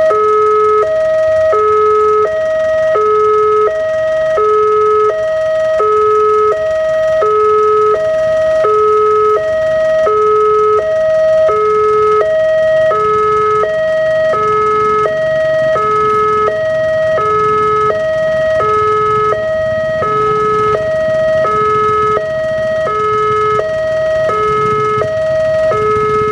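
Railway level-crossing warning alarm sounding a steady electronic two-tone hi-lo signal, about one high-low pair a second, warning that a train is approaching. A low rumble grows beneath it in the second half.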